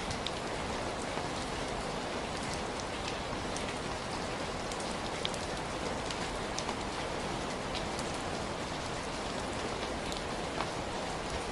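Heavy rain falling in a steady, dense hiss, with scattered sharp drip and drop ticks.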